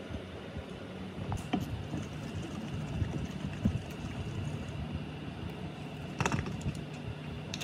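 A steady low mechanical hum, with a few sharp clicks and knocks over it.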